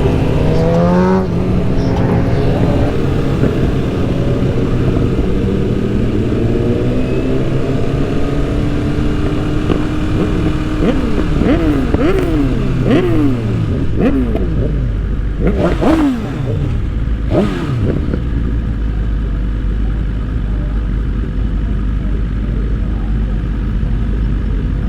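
Sport motorcycle engines revving and accelerating. Between about 11 and 18 seconds in the pitch climbs and drops quickly several times, and after that a steady low rumble continues.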